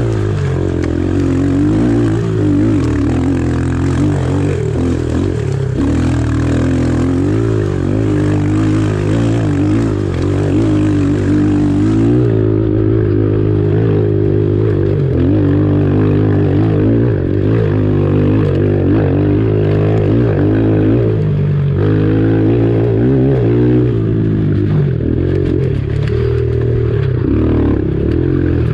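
Pit bike engine running hard, its pitch rising and falling again and again as the throttle is worked.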